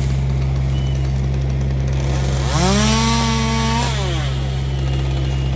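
A chainsaw revs up about two and a half seconds in, holds at full speed for about a second and a half, then winds down. Underneath it a large engine runs steadily.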